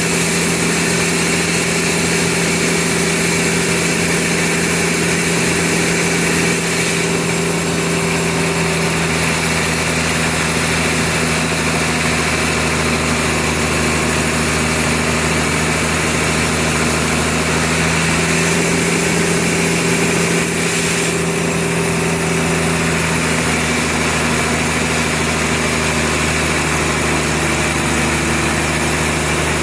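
Sawmill machinery running steadily: a continuous engine-like hum that holds an even level throughout.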